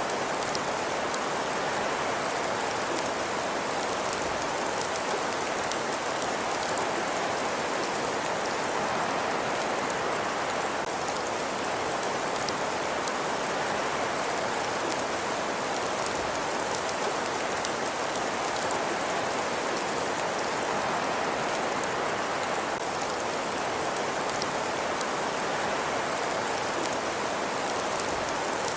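Steady ambience soundscape: an even hiss with a dense patter of tiny ticks, unchanging throughout.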